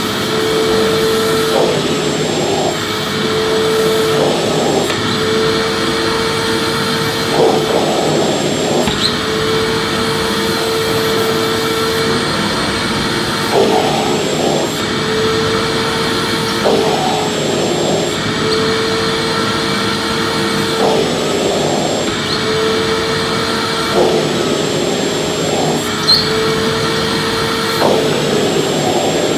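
Vacuum cleaner running steadily: a constant rushing noise with a steady motor whine, broken every few seconds by short, rougher surges.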